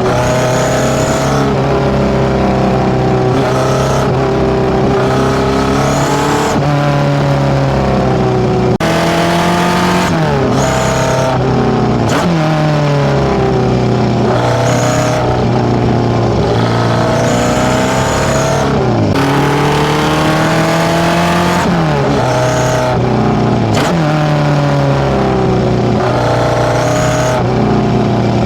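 Fully tuned Datsun A15 four-cylinder with FCR41 carburettors and a one-off 54 mm stainless exhaust, revved over and over, its pitch rising and falling every couple of seconds.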